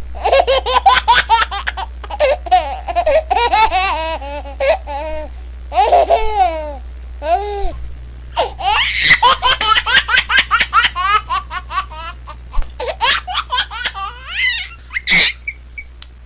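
Baby laughing in fits of rapid, high-pitched pulses, with short pauses between the fits.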